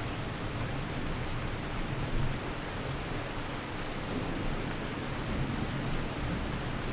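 Rain falling steadily, an even hiss, with a low steady rumble underneath.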